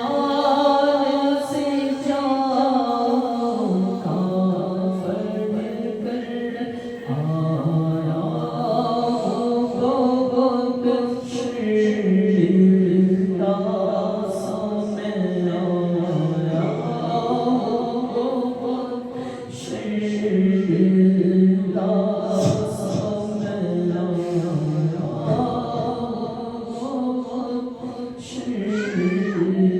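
Unaccompanied Urdu naat sung in long, drawn-out held notes, with no instruments and no beat.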